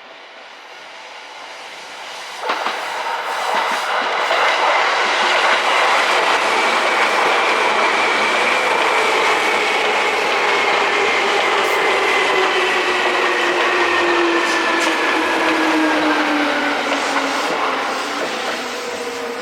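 A Seibu 2000 series electric commuter train pulls in, wheels clacking over rail joints, its motor and gear whine falling slowly in pitch as it slows down.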